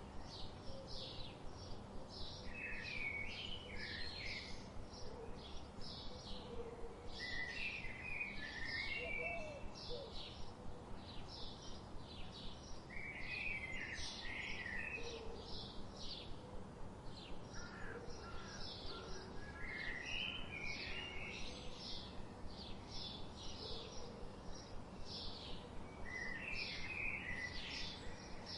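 Birds chirping: one bird gives short high chirps over and over, about three a second, while another sings a brief warbled phrase every five or six seconds. A low steady background hiss runs underneath.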